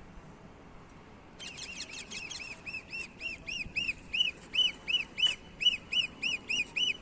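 Indian ringneck parakeet giving a rapid run of repeated high screeching calls, about four a second, starting about a second and a half in.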